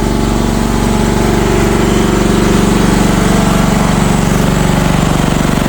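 CFG MX15RX mini excavator's engine running steadily at idle.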